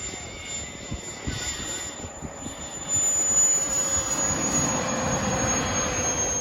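Model jet's turbine engine in flight: a steady high-pitched turbine whine over a rushing exhaust noise, which jumps louder about three seconds in while the whine sags slightly in pitch.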